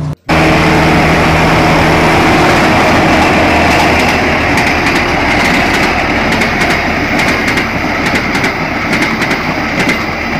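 Loud, steady heavy-vehicle engine running with a rattling clatter. It starts abruptly just after a brief gap and holds without change.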